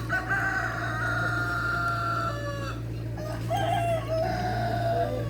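Rooster crowing twice in a row, each crow long and drawn out, over a steady low hum.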